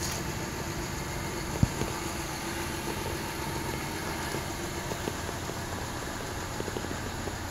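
2015 Honda Pilot's 3.5-litre V6 idling steadily, a low rumble with a faint hum. One sharp click about one and a half seconds in.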